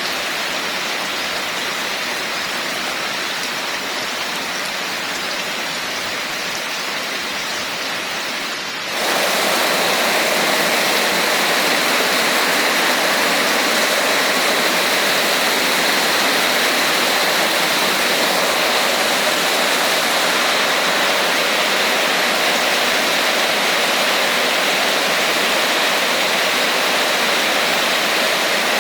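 Steady heavy rain as an even hiss, which jumps abruptly louder and fuller about a third of the way in and then holds steady.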